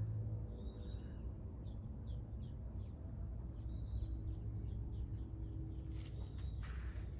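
Outdoor natural ambience: birds give many short high chirps over a steady low rumble, with a thin high insect-like whine held throughout.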